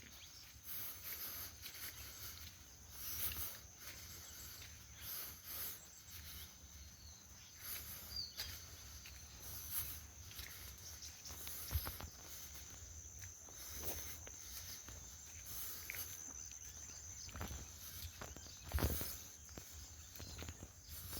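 Faint forest ambience: scattered bird chirps over a steady high insect drone, with a few footsteps or knocks, the loudest about nineteen seconds in.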